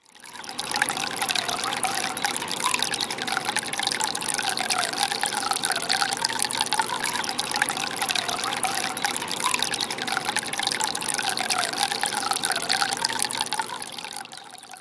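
Solar cascade water fountain running: water spilling and splashing in a steady trickle. It fades in at the start and fades out near the end.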